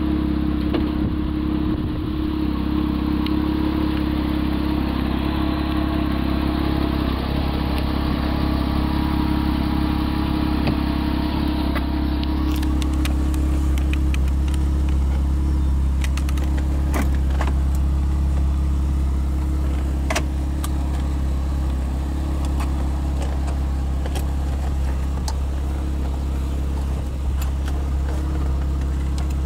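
Porsche Boxster RS60's flat-six engine idling steadily, with a few light clicks in the second half.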